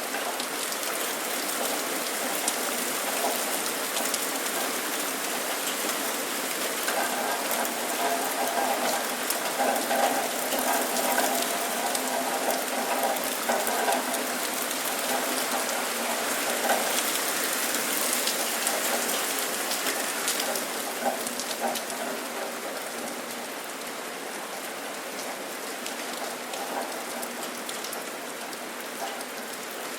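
Steady rain falling, with the patter of many individual drops hitting surfaces; a little softer in the last third.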